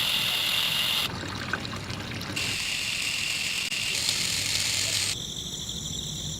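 Water trickling and pouring from a small homemade toy water pump. The sound changes abruptly a few times.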